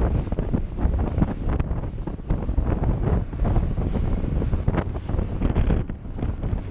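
Heavy wind buffeting the microphone as a boat runs through rough, choppy water, with a constant rumble and repeated knocks as the hull bangs over the waves.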